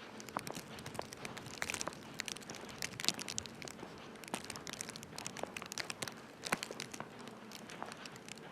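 Footsteps crunching on packed snow: a steady stream of irregular crisp crackles and crunches.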